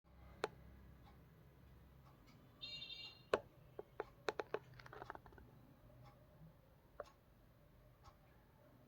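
Pet budgerigar in its cage: a short chirp a little under three seconds in, and sharp clicks and taps as it moves about the cage and swing, several in quick succession just after the chirp.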